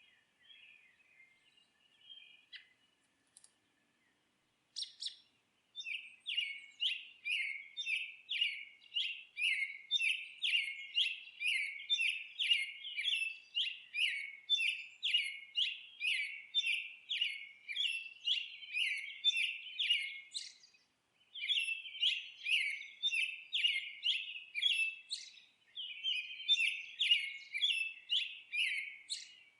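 Songbirds chirping: a few faint chirps at first, then from about six seconds in a dense, fast run of high, repeated chirps, broken by two short pauses near the end.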